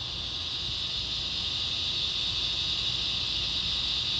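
Steady, high-pitched insect chorus, unbroken and slowly growing a little louder, with a faint low rumble underneath.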